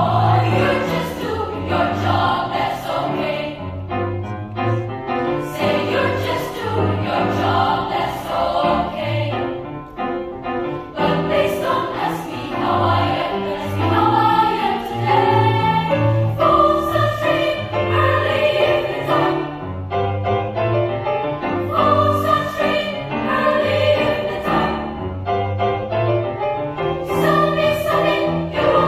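Children's choir singing in several voice parts, with low held notes beneath the voices.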